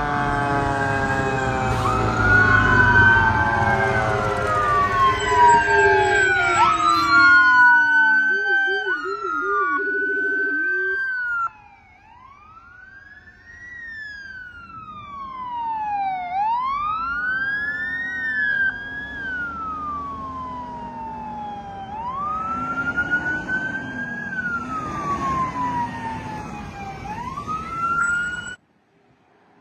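Emergency vehicle sirens wailing, their pitch rising and falling, several overlapping at first over a heavy engine rumble and a steady horn blast, with a brief fast warble about ten seconds in. After that a single siren keeps wailing more faintly, until the sound cuts off abruptly near the end.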